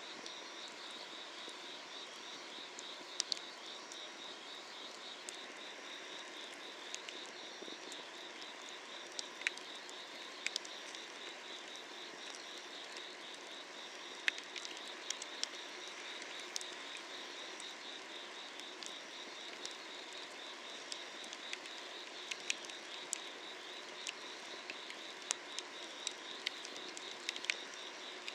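Firewood crackling under a cast-iron cauldron, with sharp pops scattered irregularly throughout, over a steady chorus of insects pulsing at a high pitch.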